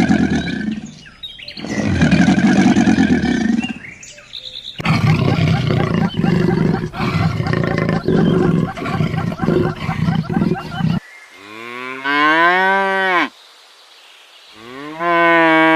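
Cattle mooing in a run of separate clips: two short low calls, a long rough pulsing bellow, then two long moos that rise and fall in pitch.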